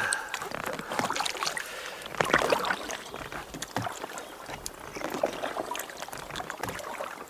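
Kayak paddle strokes: the blades dip and splash in the loch water, with drips and small splashes between strokes.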